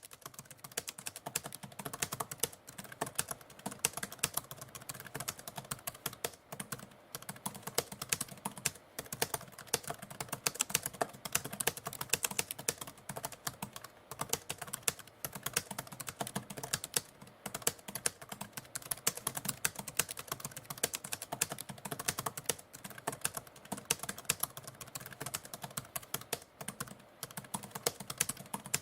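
Typewriter typing: a continuous run of quick keystroke clicks, several a second, without a break.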